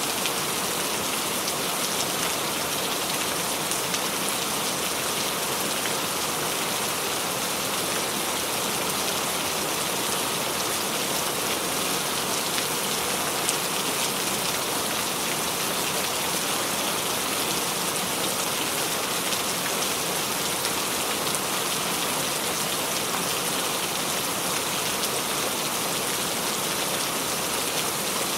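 Steady rain: an even hiss of rainfall with scattered drops pattering on a surface.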